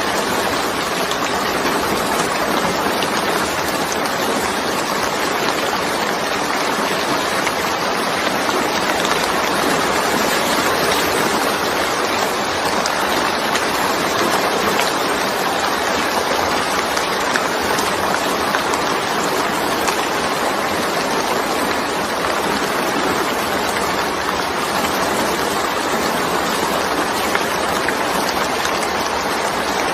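Heavy rain falling steadily, a continuous even hiss with no let-up.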